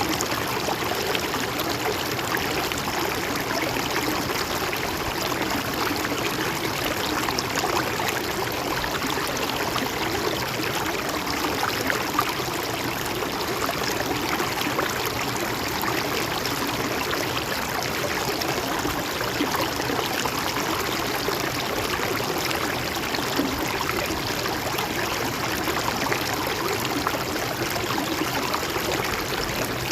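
Steady flow of a stream of water, trickling and gurgling at an even level.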